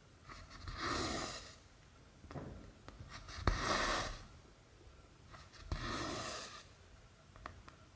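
Cotton embroidery thread drawn through cross-stitch fabric: a rasping swish, three times about two and a half seconds apart, with small sharp clicks of the needle going through the cloth.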